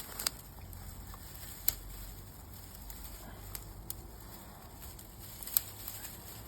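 Dry stickerbush stems crackling and snapping as they are handled: a handful of separate sharp snaps over a faint low rumble.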